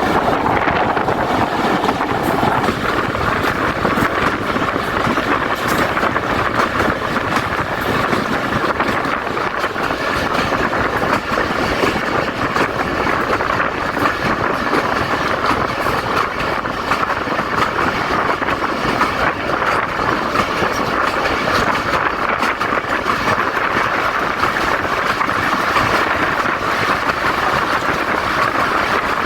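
Passenger train running on the track, heard from aboard: a steady rumble and rattle of the carriages. A thin steady tone sounds over it for the first two seconds or so, then stops.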